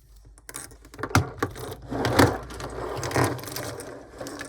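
Small items being handled close to the microphone: a run of clicks, knocks and rustling, loudest about two seconds in and dying down near the end.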